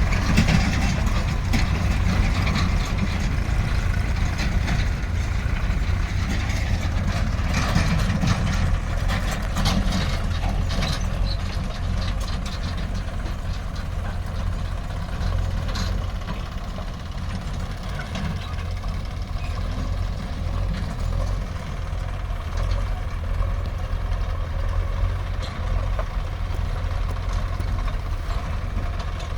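Heavy diesel engine running steadily with a deep, low rumble. Through roughly the first half there is repeated clattering and knocking, which thins out later.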